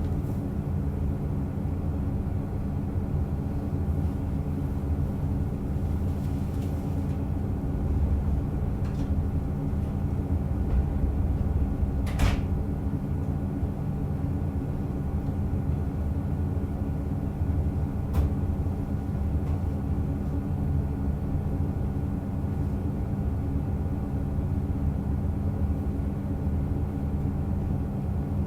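Diesel railcar running on the rails, heard from inside the car: a steady rumble of wheels and engine drone with a few steady engine tones. A sharp click about twelve seconds in and a smaller one about six seconds later.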